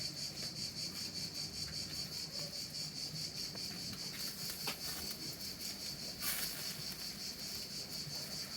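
Insects chirring in a steady, high-pitched chorus with an even pulsing texture, with a short rustle about six seconds in.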